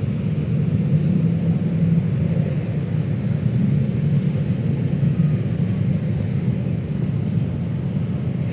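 Steady rumble of city traffic on a busy street, with no single vehicle standing out.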